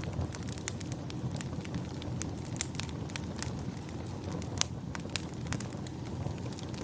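Wood fire crackling: irregular sharp pops and snaps, several a second with one louder pop about halfway through, over a steady low rumble of the flames.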